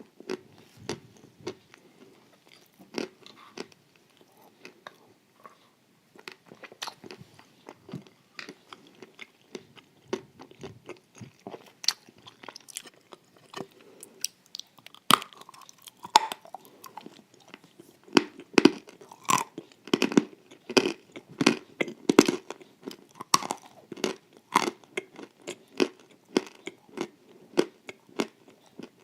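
A person chewing crunchy sweets close to the microphone: a steady run of crisp crunches and mouth sounds, coming thicker and louder from about halfway through.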